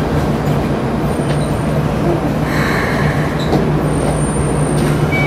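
Keikyu 1000-series electric train (set 1033F) running, a steady low hum and rumble, with a short hiss about two and a half seconds in.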